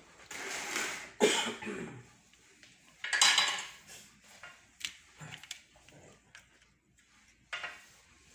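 Hard objects being handled: several loud clattering, scraping bursts with scattered clicks and knocks between.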